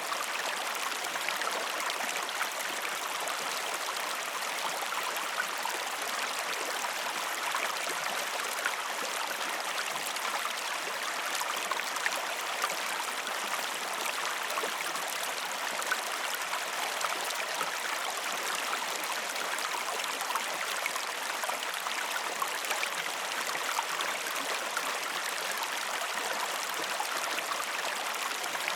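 A river or stream running steadily, an even rush of water with small splashes and trickles through it.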